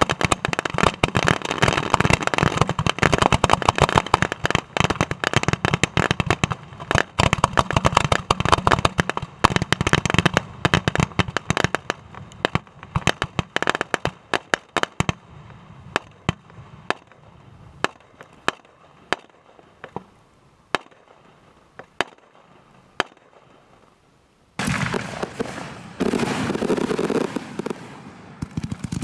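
Fireworks crackling in a dense, rapid stream of sharp pops that thins to scattered single pops about halfway through and dies out. A few seconds before the end, a steady rushing noise starts suddenly.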